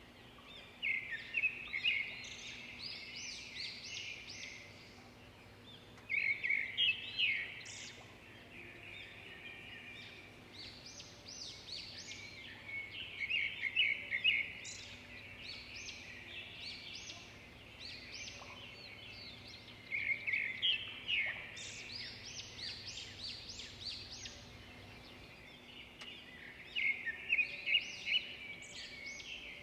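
Songbirds singing: bursts of quick, chirping notes, a new phrase roughly every six seconds, over a faint steady background noise.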